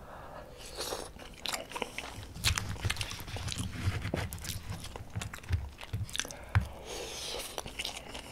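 Close-miked chewing of a mouthful of beef bulgogi: many short wet clicks and smacks, with low, even jaw pulses setting in about two seconds in.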